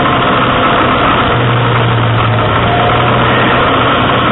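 Pontiac Solstice GXP's turbocharged 2.0-litre four-cylinder engine running steadily as the car drives the course, heard from inside the cabin over a steady rushing noise. The engine hum strengthens about a second and a half in.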